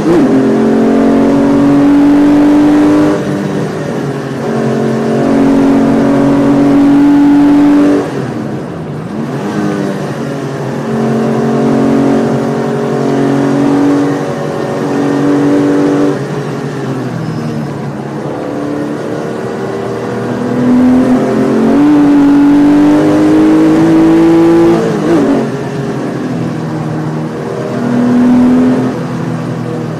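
Porsche 993's air-cooled flat-six engine driven hard, heard from inside the cabin: revs climb under full throttle and fall back sharply at upshifts and when lifting off for corners, over and over.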